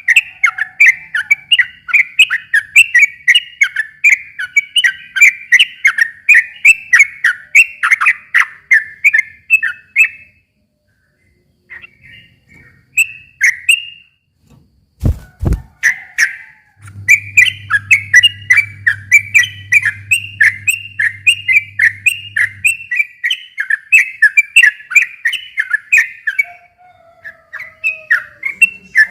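Yellow-vented bulbul (trucukan) singing: long runs of quick, bubbly chattering notes that break off for a few seconds midway and then start again. Two sharp clicks sound in the pause.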